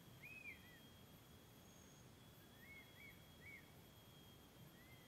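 Faint bird calls, short arched whistled notes: a pair right at the start, three more about midway through, and two fainter ones near the end, over a faint steady high tone.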